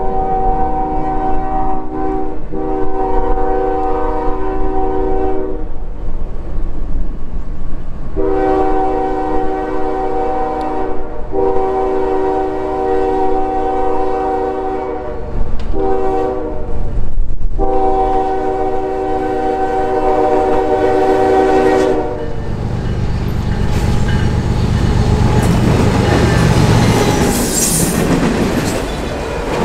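Diesel freight locomotive's multi-chime air horn sounding a series of long blasts with one short one. The last four go long, long, short, long: the grade-crossing signal. The horn stops about 22 seconds in as the train reaches the crossing, and the freight cars roll past with a rumble and wheel clatter and a brief high wheel squeal near the end.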